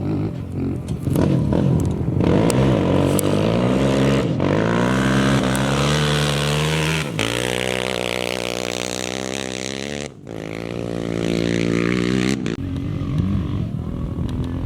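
Off-road race engines revving hard under acceleration, the pitch climbing through the gears, in several short passes cut abruptly one after another.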